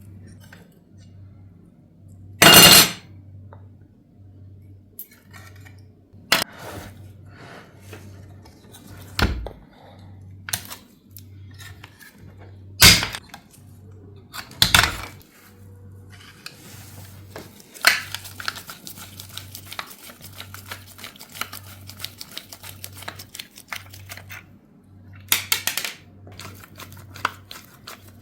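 Metal clinks and knocks as small diecast toy-car parts and tools are handled and set down, a few sharp loud ones spread out, the loudest about two and a half seconds in. In the second half comes a stretch of rapid fine ticking and scraping, over a faint low pulsing hum.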